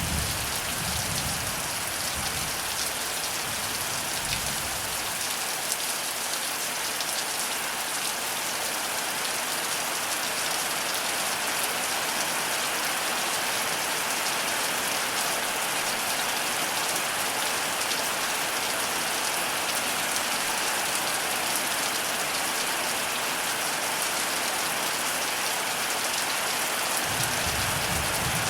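Heavy rain pouring down in a steady, dense hiss. A low thunder rumble fades out over the first few seconds, and another begins near the end.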